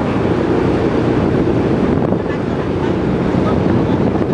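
Boat's engine running steadily under way, with wind buffeting the microphone.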